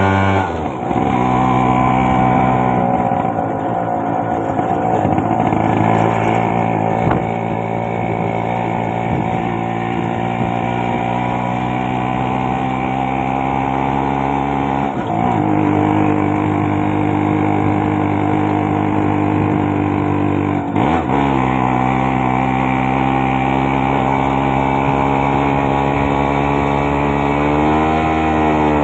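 Modified Yamaha RX100's single-cylinder two-stroke engine running steadily, its pitch dropping briefly and climbing back three times, and rising and falling again near the end.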